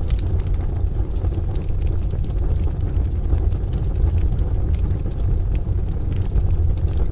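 Wood stove fire crackling, with irregular sharp pops and snaps over a steady deep rumble.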